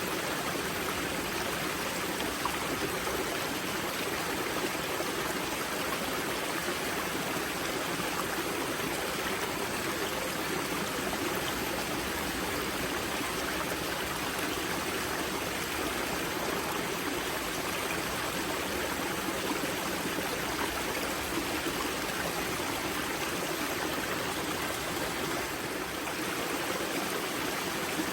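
Spring-fed mountain river at its source, water rushing and splashing steadily over rocks.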